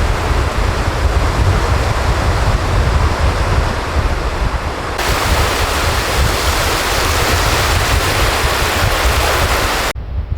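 Strong sea wind buffeting the microphone, a heavy low rumble over the wash of surf. The sound shifts abruptly about halfway through and drops sharply near the end.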